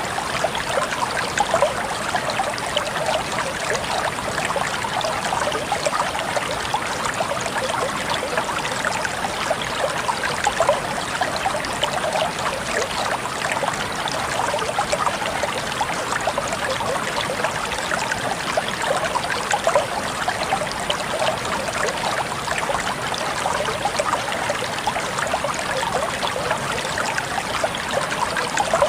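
Stream water flowing and trickling steadily, with a fine splashing texture.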